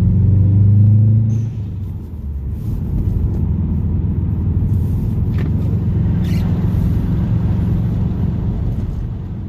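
Turbocharged 2.5-litre flat-four engine of a 2007 Subaru Legacy GT spec.B, heard from inside the cabin while driving. It is pulling strongly at first, eases off briefly about a second and a half in, then picks up again and runs steadily at cruise.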